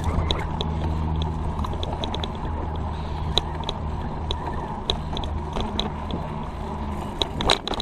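Road bicycle's drivetrain ticking while riding, scattered short clicks over a steady low rumble, with a quick cluster of louder clicks near the end.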